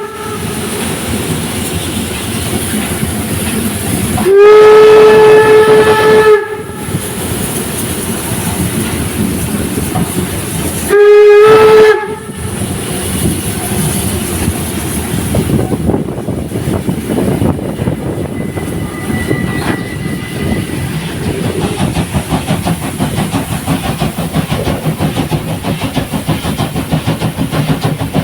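Steam locomotive's whistle blowing two loud blasts, a long one of about two seconds and then a short one of about a second, over the steady running noise of the steam train. In the second half the running noise carries a fast rhythmic beat from the moving train.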